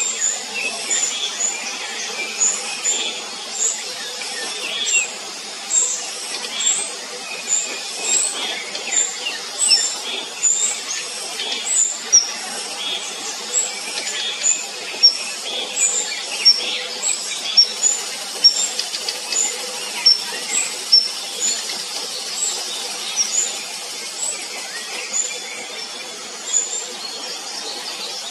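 Thin, very high bird chirps repeating about once or twice a second over a steady hiss.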